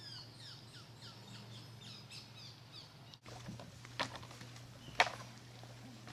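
Songbirds singing, a quick run of short falling chirps, for the first three seconds. After that come two sharp knocks about a second apart, the second the louder.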